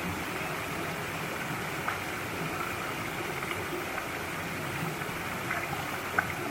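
Mountain valley stream flowing over rocks: a steady rush and babble of water, with a few small splashes.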